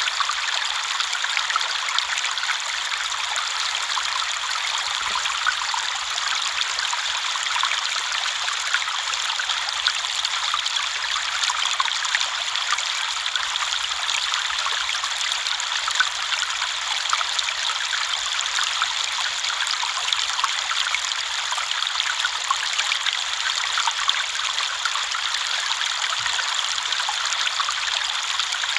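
River water flowing over stones, a steady babbling rush with many small splashes and trickles.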